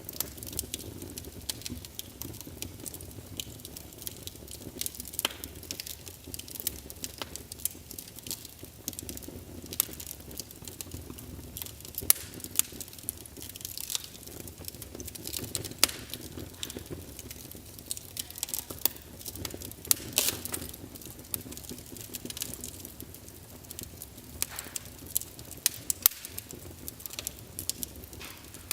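Log fire burning in a fireplace: dense, irregular crackles and pops from the burning wood, a few sharper than the rest, over a low steady rumble of the flames.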